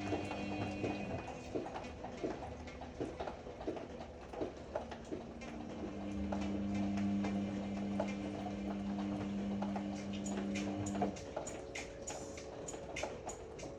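Ariston AML125 washer-dryer running a cycle: the drum motor hums steadily while the load tumbles with irregular clicks and knocks. The hum stops about eleven seconds in, and the clicking goes on.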